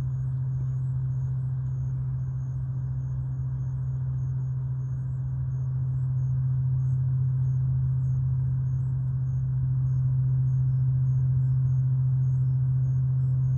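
Loud, steady low-pitched hum of unknown origin, a continuous drone like a distant plane or heavy machinery, swelling a little louder about halfway through and again later on.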